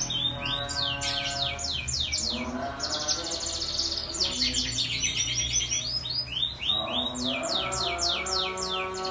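Canary singing continuously: quick runs of downward-sweeping whistled notes alternating with fast, rattling trills, with no pause.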